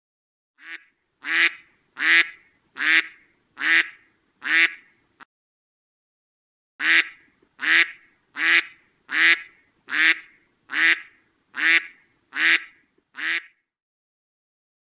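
A duck quacking: about six quacks, a pause of about two seconds, then nine more, evenly spaced at a little over one a second.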